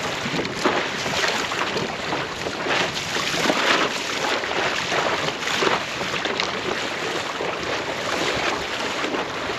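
Sea water splashing and sloshing against a fishing kayak as it moves over open water, with wind buffeting the microphone.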